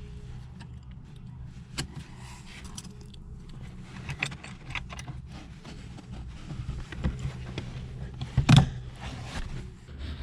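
Small metallic clicks, rattles and scrapes of gear shift cables and fittings being handled and connected at the gear stick, with one louder knock near the end, over a steady low hum.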